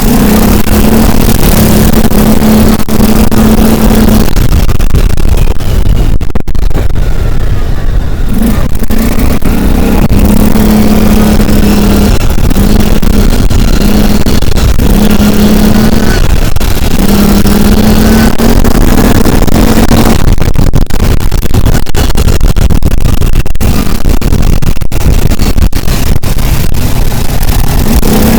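A road vehicle on the move: loud, steady engine and road noise with a droning hum that drops out briefly every second or two.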